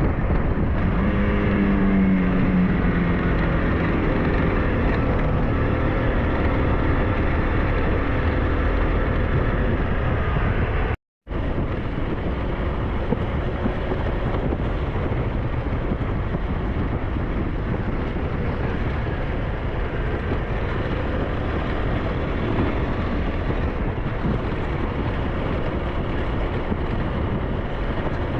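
SYM NHT 200 engine running while riding, with wind buffeting the microphone; the engine pitch falls about one to three seconds in. The sound cuts out briefly about eleven seconds in.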